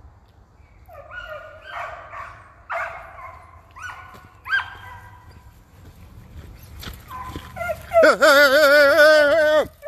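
Deer hounds baying: a series of short bays, then one long, loud wavering howl near the end.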